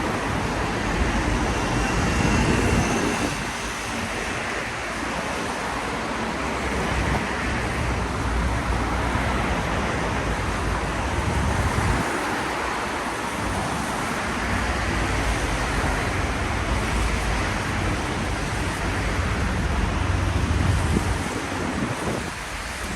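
Traffic on a rain-wet city street: several cars pass one after another, their tyres hissing on the wet road over a steady wash of noise.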